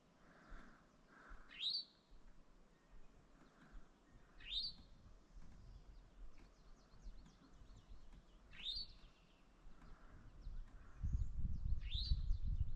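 A songbird repeating a single short, sharply rising call about every three to four seconds, with fainter chirps between. About two seconds before the end a low rumble comes up beneath it.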